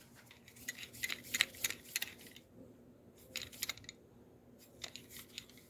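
Light metallic clicks and rattles of hand tools being handled, in three quick clusters.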